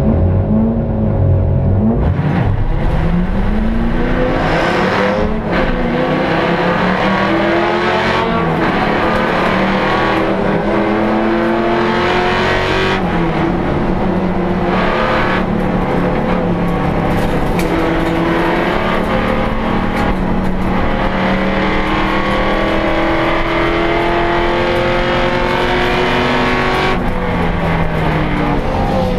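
HSV Clubsport race car's V8 engine heard from inside the cabin, held at revs and then launching about two seconds in, accelerating hard with the revs climbing and dropping back at each upshift. The revs fall away near the end.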